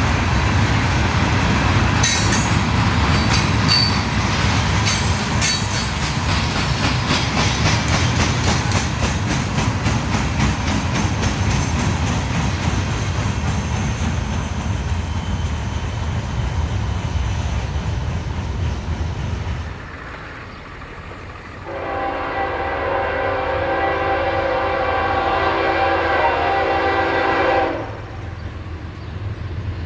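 A train rolls past with a steady rumble and wheels clicking over the rail joints, then drops away about twenty seconds in. After a short lull, a diesel locomotive's air horn sounds one long, several-note chord for about six seconds.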